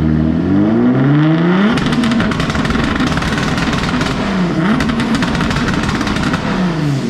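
Turbocharged Audi B5 S4 engine under a full-throttle dyno pull, very loud. The revs climb for about two seconds, then hold high with a harsh crackle, dip briefly and pick up again midway, and fall off near the end as the pull finishes.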